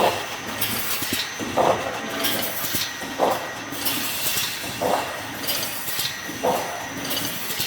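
Fully automatic BRC wire mesh welding machine running its cycle: a metallic clank about every one and a half seconds, five in all, with bursts of hiss between the strokes.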